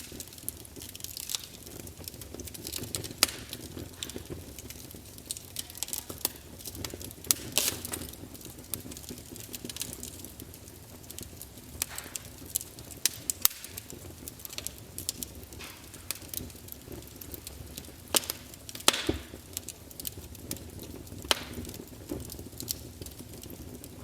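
Wood campfire crackling, with irregular sharp pops and snaps over a low steady rumble of burning.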